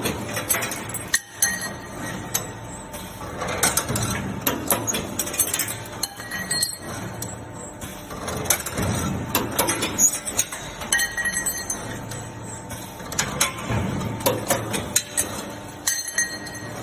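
CNC hose clamp making machine running through its forming cycle, with metallic clinks and clicks of steel strip being fed, bent and cut, repeating about every four and a half seconds.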